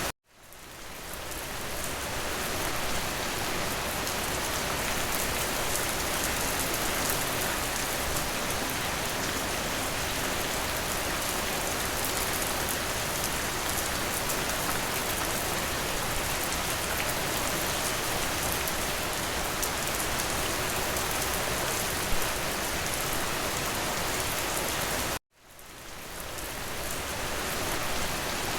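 Steady rain falling, an even hiss of drops. It cuts out abruptly twice, right at the start and again near the end, and each time fades back in over about two seconds. One drop about 22 seconds in is briefly louder than the rest.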